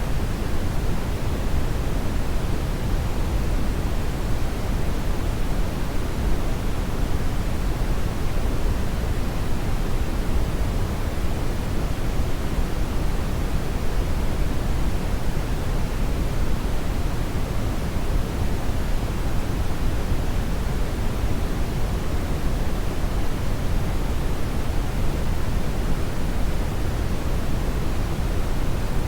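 Hair dryer running steadily: an even, unchanging rush of air, heaviest in the low end, with no change in pitch or level.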